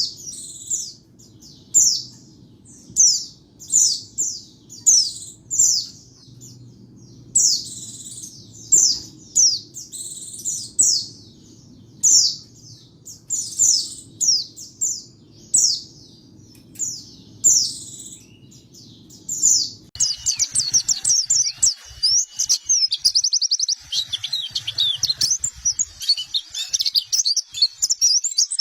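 A white-eye (pleci) calling: short, high, sweeping chirps repeated about once or twice a second. About two-thirds of the way in, these change abruptly to a dense, rapid twittering song.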